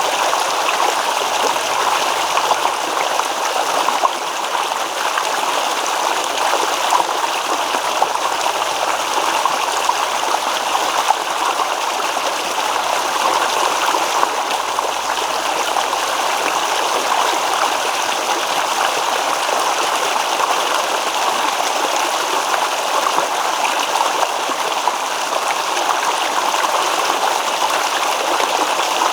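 Stream water babbling and rippling over stones in a steady, continuous rush.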